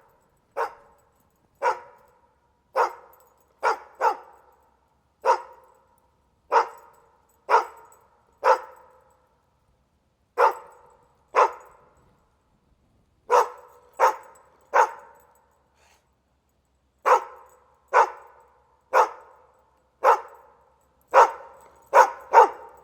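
A dog barking in single sharp barks, about one a second, around twenty in all, with a couple of short pauses between runs.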